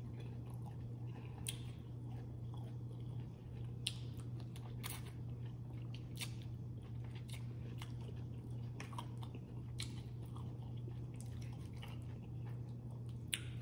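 Close-miked chewing and biting of food, with scattered sharp crunches and clicks from the mouth, over a steady low hum.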